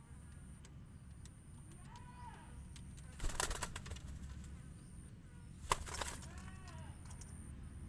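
A bird making soft short arched calls, with two brief loud bursts of rustling or wing flapping, about three and six seconds in.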